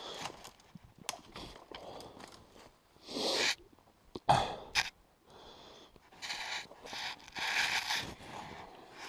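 Irregular rustling and scraping, like footsteps and handling noise, with one sharp knock about four seconds in.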